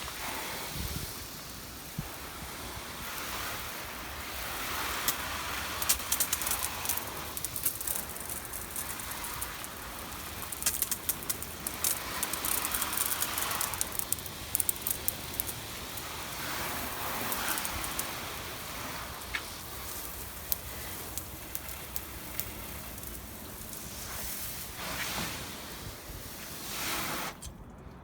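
Garden hose spraying water onto a car's body, a steady hiss of spray with bursts of crackling spatter that come and go.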